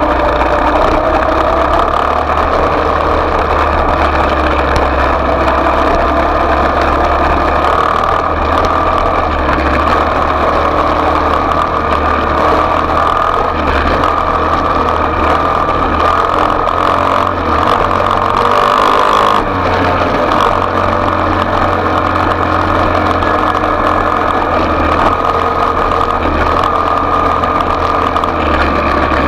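Small off-road motorbike engine running at a fairly steady speed, its pitch wavering a little, with a brief change in note about nineteen seconds in.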